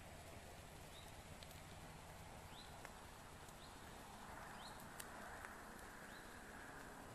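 Very quiet outdoor ambience: a small bird giving short high chirps about once a second, with a few faint clicks.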